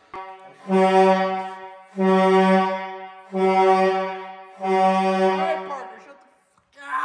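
Truck air horn blasting over and over, each single-pitched blast lasting about a second, with short breaks between them.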